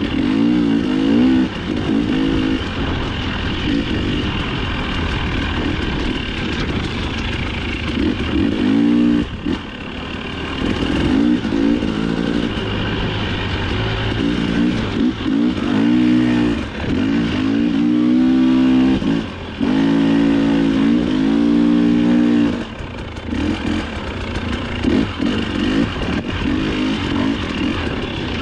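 Dirt bike engine under race riding, revving up and down over and over as the throttle is opened and rolled off, with a few short drops where it is shut off.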